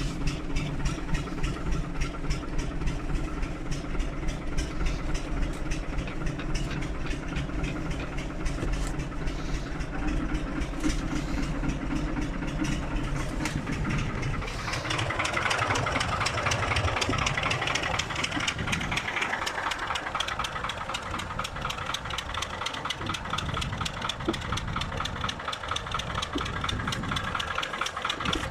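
Fiat 60-90 tractor's four-cylinder diesel idling with a steady knocking clatter shortly after a cold start in frost. About halfway through the low rumble fades and the higher clatter comes forward.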